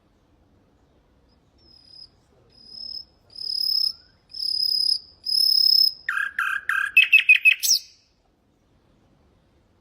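Common nightingale singing one phrase: five pure whistled notes on one pitch, each louder than the last, then a fast run of lower notes that climbs into a rattling trill and ends in a quick upward sweep.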